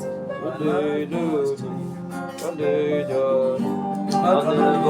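Slow worship music: guitar playing melodic lines that bend and glide in pitch over sustained low notes.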